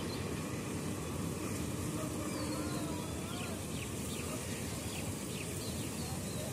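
Steady low rumble of a train running away down the line, with small birds chirping faintly over it.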